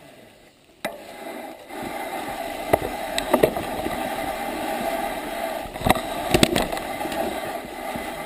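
Bicycle rolling downhill: a sharp click about a second in, then a steady rush of tyre and wind noise with occasional short clicks and rattles from the bike.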